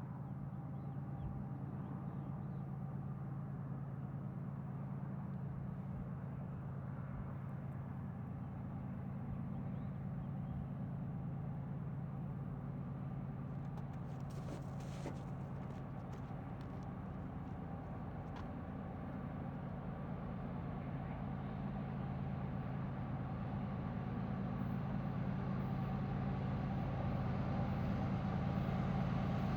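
Freight train rolling past: a steady low rumble that slowly grows louder toward the end.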